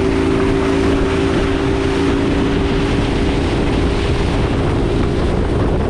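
Motorboat engine running steadily at speed, with strong wind blowing across the microphone.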